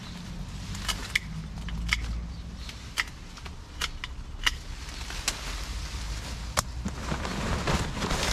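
Hand pruners snipping through shrub stems: about eight sharp cuts at irregular intervals, with rustling of foliage near the end and a low steady rumble underneath.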